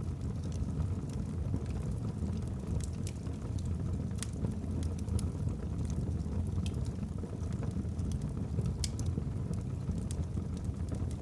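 Wood fire burning in a fireplace: a steady low rumble of flames with sharp, irregular crackles from the burning logs, about one a second.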